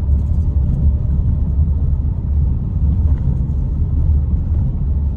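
A loud, steady low rumble with no clear pitch and no distinct events.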